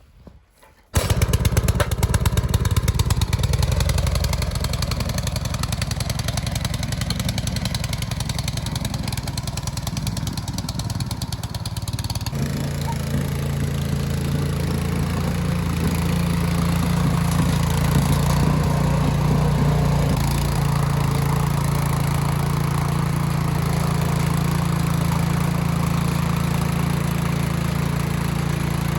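Troy-Bilt CRT rear-tine garden tiller's small engine, coming in abruptly about a second in and running loud and steady. About twelve seconds in its sound changes and settles into a steadier hum.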